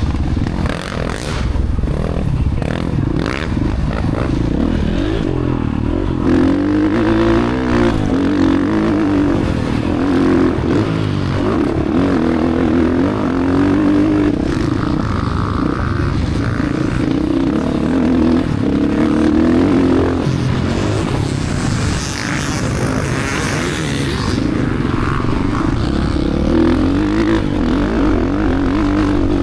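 Dirt bike engine running hard and being ridden, its pitch rising and falling continuously as the throttle opens and closes.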